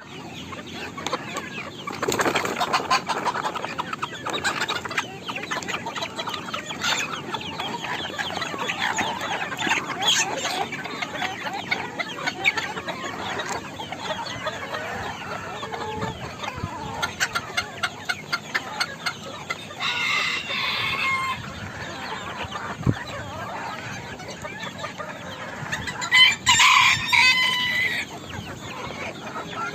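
A flock of bantam chickens clucking steadily, with a rooster crowing twice: once about two-thirds of the way through and once, louder, near the end.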